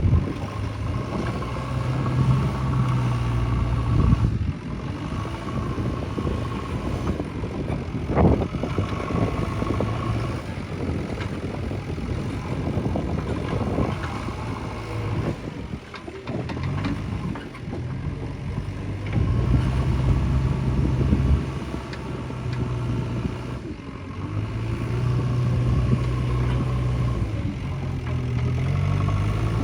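Diesel engine of a JCB 3DX backhoe loader at work, revving up and settling back repeatedly as it digs and loads mud. There is a single knock about eight seconds in.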